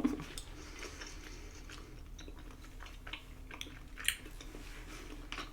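A person chewing a mouthful of tteokbokki rice cakes in sauce, with scattered soft mouth clicks and smacks, the clearest about four seconds in.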